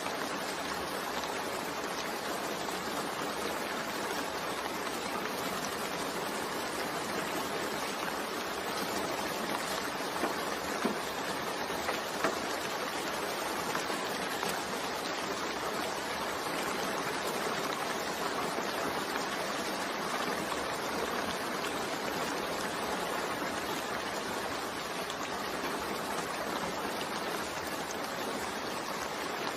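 Steady gentle rain, an even hiss, with a few slightly louder drop ticks about ten to twelve seconds in.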